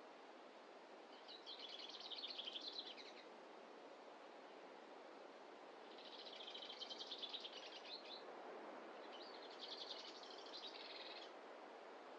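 A songbird singing three rapid trilled phrases of about two seconds each, high-pitched, over a steady faint hiss of forest ambience.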